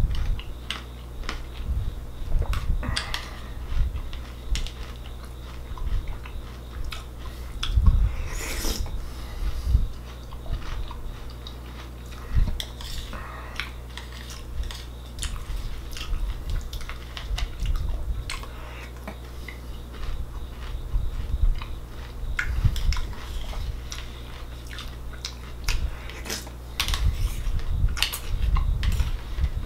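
Chewing crunchy Raisin Bran Crunch cereal in uneven runs of crunches, with a spoon now and then clinking and scraping in a plastic bowl.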